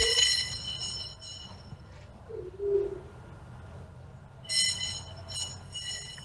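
Birds calling: a high, ringing call at the start and a run of short high calls from about four and a half seconds, with two short low notes, one at the start and one about two and a half seconds in.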